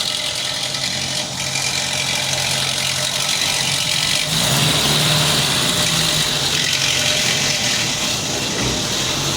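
Ford Del Rey's CHT four-cylinder engine idling steadily with a hissing, rattly noise on top, the timing-chain noise the owner is chasing; its idle note rises slightly about four seconds in. The owner suspects a bent timing-chain tensioner.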